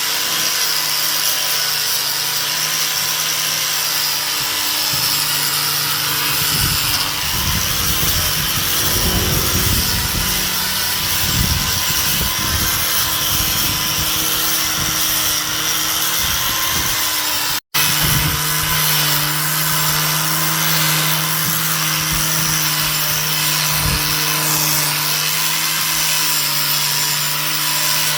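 A power tool running steadily, with a brief dropout about two-thirds of the way through.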